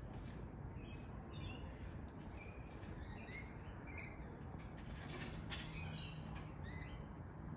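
Birds chirping: a scattered series of short, high chirps throughout, over a steady low background rumble.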